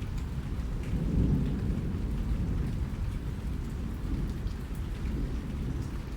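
Steady rain, heaviest in the low end, with faint scattered drop ticks. A deep low rumble swells about a second in and eases off.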